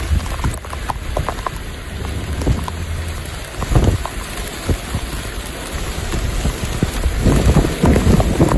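Rain falling in a squall-line storm, with gusting wind buffeting the microphone; the gusts swell about four seconds in and again near the end.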